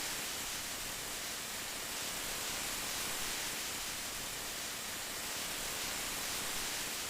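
Steady rain falling, heard as an even hiss with no single drops or thunder standing out.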